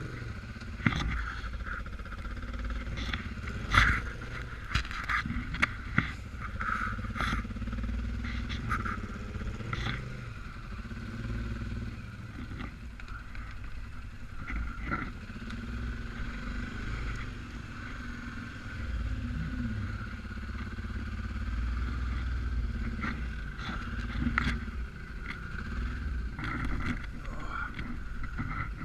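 Suzuki King Quad 750 AXI ATV's single-cylinder engine running as it rides over rough off-road ground, its pitch rising and falling a little with the throttle, with scattered sharp knocks and rattles from the machine jolting over the terrain.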